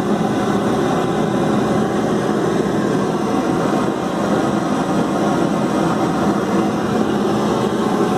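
Home-built propane forge burner running in open air, a steady hissing rush of flame at about one bar of gas pressure with the choke closed.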